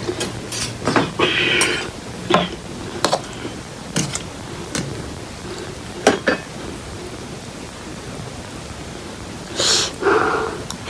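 Close-up eating sounds: instant ramen noodles being slurped in two longer rushes, about a second and a half in and again near the end, with scattered sharp clicks and smacks of utensils and chewing between them.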